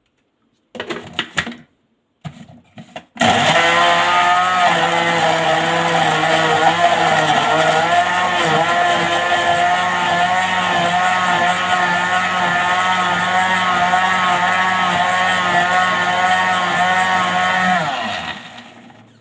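Electric blender blending fruit into a smoothie. It starts about three seconds in after a few short clatters and runs steadily for about fifteen seconds, its motor pitch wavering slightly under the load. Near the end it switches off and winds down.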